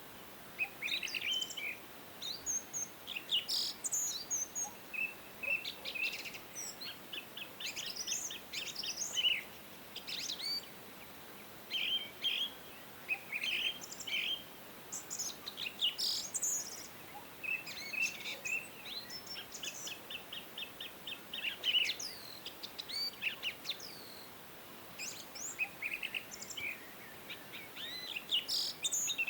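Songbirds singing: a steady stream of chirps, whistled phrases and fast trills of rapidly repeated notes, overlapping one another, over a faint steady hiss.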